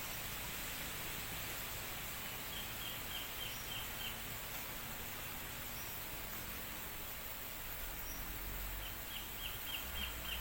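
Steady wind blowing as an even hiss, with two runs of about seven quick, high, falling chirps from a small animal: one about a quarter of the way in and one near the end.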